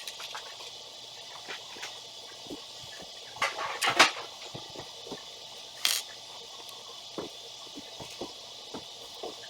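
Small building-set pieces clicking and rattling as they are handled and fitted together, in scattered light clicks with a louder clatter about three and a half to four seconds in and another near six seconds.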